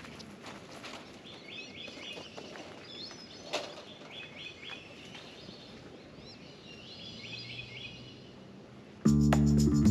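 A songbird repeats short chirping phrases every second or two over steady outdoor background noise. About nine seconds in, a guitar-led music track starts suddenly and much louder.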